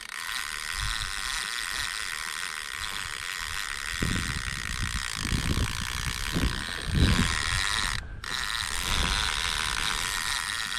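Fishing reel being cranked steadily, a continuous fine whirring as line is retrieved. It stops briefly about eight seconds in, and a few low thumps come in the middle.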